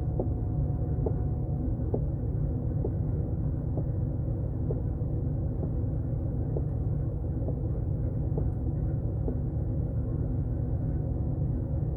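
A vehicle engine running steadily with a low rumble and a light, regular tick about twice a second.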